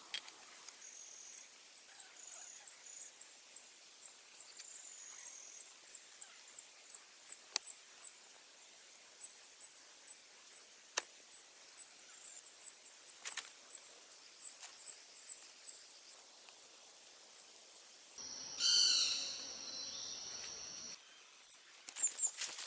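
A forest bird repeats a short, high chirp two or three times a second. Late on, a louder call with falling notes stands out for a couple of seconds.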